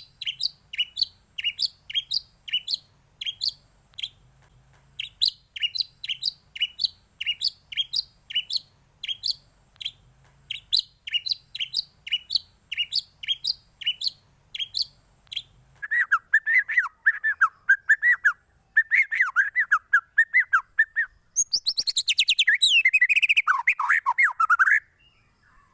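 Songbird song from a bird-tutoring recording. A steady series of sharp chirps, each sweeping downward, about two a second, with one short break about four seconds in. From about sixteen seconds it changes to a lower warbling phrase, and near the end to a fast, high twittering trill.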